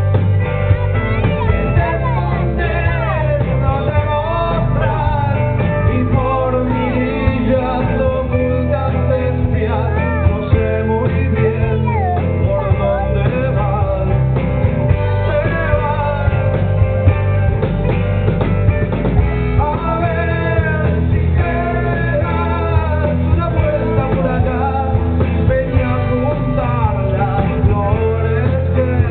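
Rock band playing live, with guitar and a singer's voice over a steady full band.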